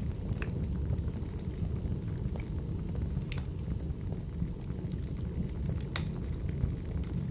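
Burning firewood: a steady low rumble of the fire with scattered crackling pops of the wood, three sharper ones about half a second in, a little past three seconds and around six seconds.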